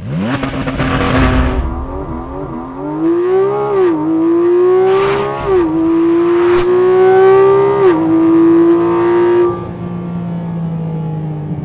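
Porsche 718 Cayman GT4 RS's 4.0-litre naturally aspirated flat-six launching hard from a standstill on launch control and accelerating flat out. The revs climb and fall back with three quick PDK upshifts, and near the end the driver lifts off and the engine drops to a low steady note.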